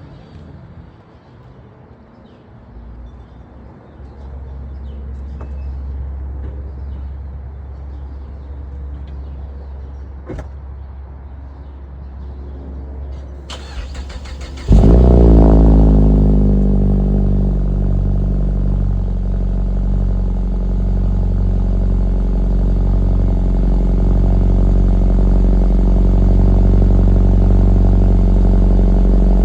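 2022 Mazda 3's four-cylinder engine through a Corksport axle-back exhaust: after about fourteen seconds of a low steady hum, the starter cranks briefly and the engine fires loudly, then settles into a steady cold-start fast idle.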